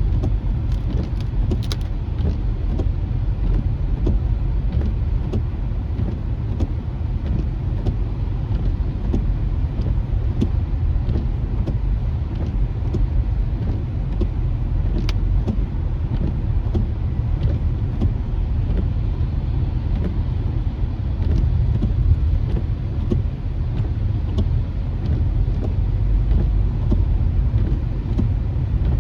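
Car driving on rain-wet streets, heard from inside the cabin: a steady low rumble of road and tyre noise, with scattered faint ticks.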